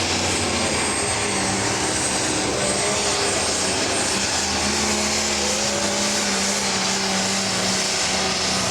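Pro stock pulling tractor's diesel engine running flat out and steady during a pull down the track.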